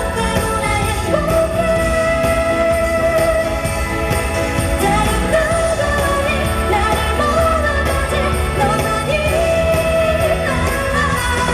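Live K-pop concert performance: a female singer's voice holding long, wavering notes over the band's backing music through a large hall's sound system.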